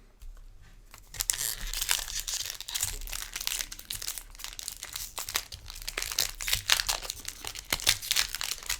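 A foil booster pack wrapper being torn open and crinkled: a dense, irregular crackling that starts about a second in.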